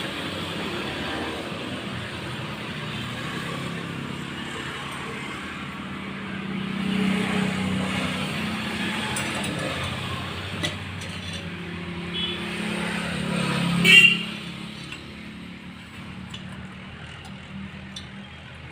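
Motor vehicles going by, swelling about 7 seconds in and again to a louder peak near 14 seconds, with a few sharp clicks.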